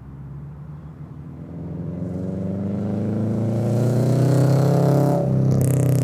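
2022 Subaru BRZ's 2.4-litre flat-four on Tomei unequal-length headers, a catless front pipe and a Greddy RS exhaust, climbing steadily in revs and getting louder, then dropping off about five seconds in.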